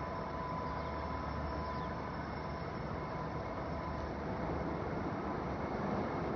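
Local train pulling forward slowly: a steady rumble of the train running on the rails, with a faint steady whine that fades about four seconds in as the rumble grows a little louder.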